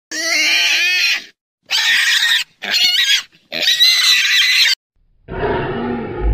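Pig squealing in four loud, high-pitched cries, followed near the end by a lower, rougher call.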